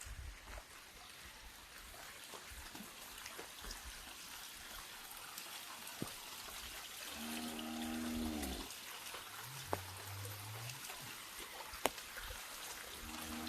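Steady rain falling and trickling, with occasional sharp drips striking the umbrella overhead. About halfway through a pitched sound with a clear note is held for about a second, followed by a lower, rising one.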